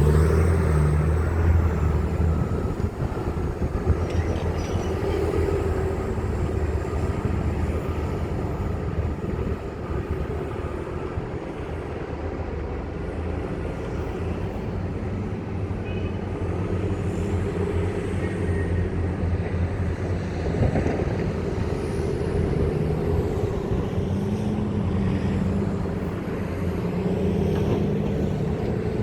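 Hitachi 870 excavator's diesel engine running steadily under work, its pitch shifting up and down a little.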